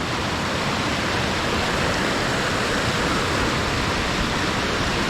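Water pouring over a creek spillway: a steady rush of falling water.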